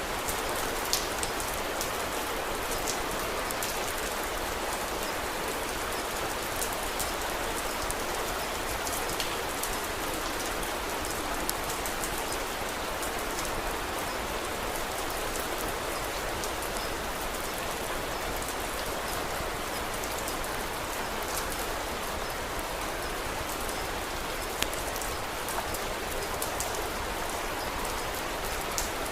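Steady rain, an even hiss of many drops, with a few sharp pops here and there.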